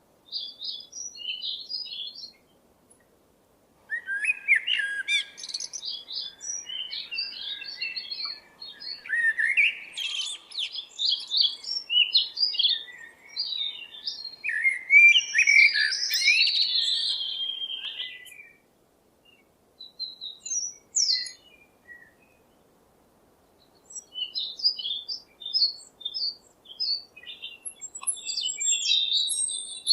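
Small birds chirping and twittering in quick high notes, in stretches broken by a couple of short silent gaps; busiest in the middle.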